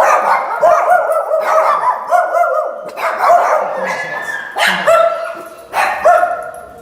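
A dog barking over and over in short, high-pitched barks.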